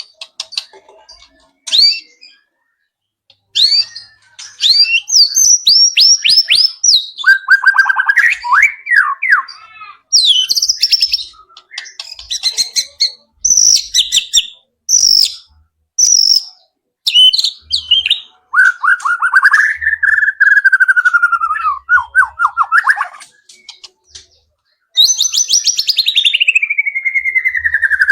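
White-rumped shama (murai batu) singing a loud, varied song in separate phrases with short pauses between them: rapid trills, clear whistles and, near the end, a long falling sweep. The song is filled with borrowed calls of wild birds.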